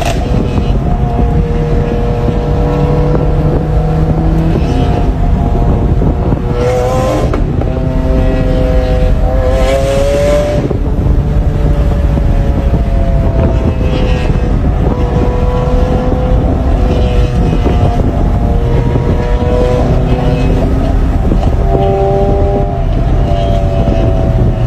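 Supercar engines and exhausts running loud, revving and accelerating, with the engine pitch rising in several sweeps over a deep rumble.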